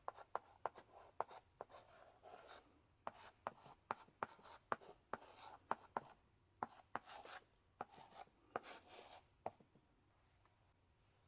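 Chalk in a chalk holder writing on a blackboard: a run of sharp taps and short scratching strokes that stops near the end.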